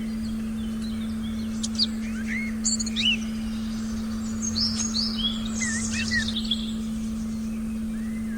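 Forest birds chirping and calling in short, quick, sliding notes, busiest from about two to six and a half seconds in. Underneath is a steady low drone tone and faint background hiss.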